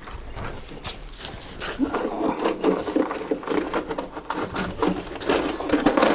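A busy run of light knocks, taps and scrapes, a few a second, thickening from about two seconds in.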